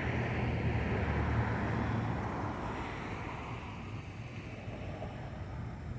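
Low rumble of passing road traffic outdoors, louder over the first two or three seconds and easing off after.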